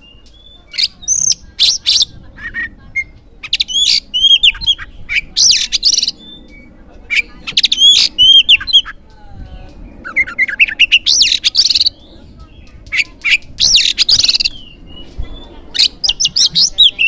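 Oriental magpie-robin (kacer) singing loudly in bursts of sharp whistles, chirps and rapid trills, each burst a second or two long with short pauses between.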